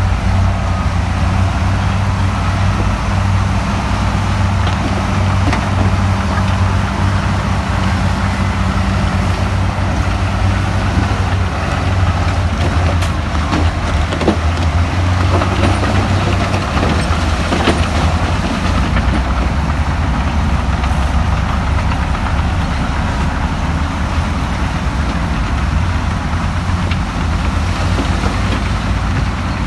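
Heavy diesel engine of earthmoving machinery running steadily with a deep, even drone, with a few sharp knocks and clanks about halfway through.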